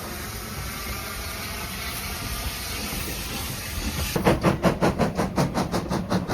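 Steam locomotive hissing steam steadily. About four seconds in, its exhaust breaks into rapid, even chuffs at roughly five a second: the driving wheels slipping on the rail.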